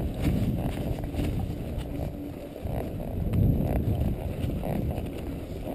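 A horse moving along a trail: hoof thuds and scuffs over a low, uneven rumble, swelling twice.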